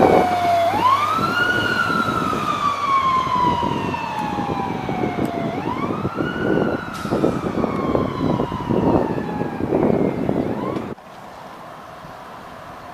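Fire engine siren wailing as the truck passes. It twice winds up quickly and then coasts down slowly over several seconds, the pattern of a mechanical Q siren, over the rumble of the truck. It cuts off abruptly near the end.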